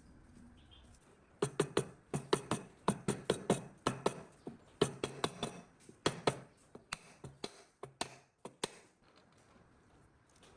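A quick, irregular run of sharp taps or knocks, several a second, starting about a second and a half in and stopping near the end.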